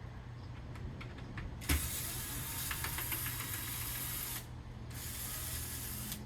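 Cordless power driver with a square bit backing out screws from a drawer slide: two runs, a longer one starting with a knock about a second and a half in and a shorter one near the end, with small clicks before them.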